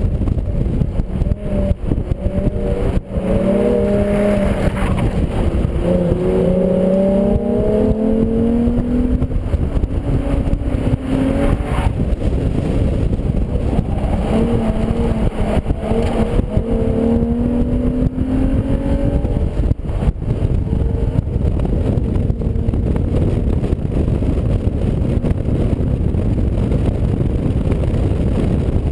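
2004 Infiniti G35 coupe's 3.5-litre V6 under hard driving on track. Its note rises and falls with the revs over the first twenty seconds, then sinks under a loud steady rush of wind and road noise.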